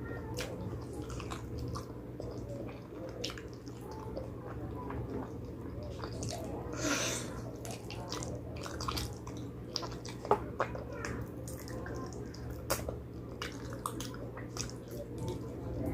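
Close-miked wet chewing and lip-smacking while eating spicy pig trotters, with many short sharp clicks and a longer slurp about seven seconds in, over a steady low hum.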